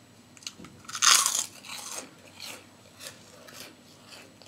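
A person biting into a crunchy cracker, likely kerupuk: one loud crunch about a second in, then a string of softer crunches as it is chewed.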